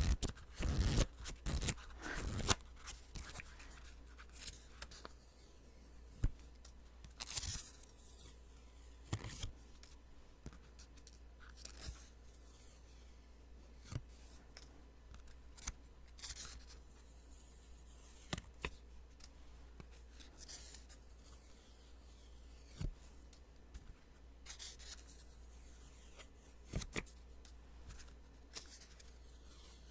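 Sticky notes being peeled off, each peel a short crackly, sticky rasp. A quick run of peels comes in the first two or three seconds, then single peels and small paper rustles every second or two.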